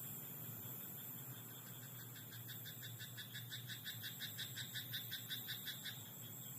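A frog in a rice paddy calling a rapid run of croaks, about five a second, that starts about one and a half seconds in and stops about a second before the end, over a steady faint background hiss.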